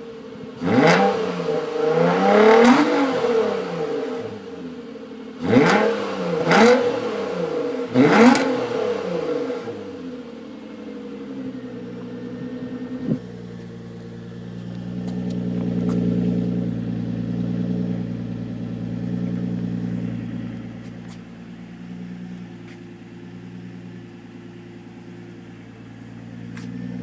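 Nissan Altima SE-R's 3.5-litre V6 through its stock exhaust, revved in three quick blips, each rising and falling, in the first ten seconds. It then settles to a steady idle that swells and eases a few times.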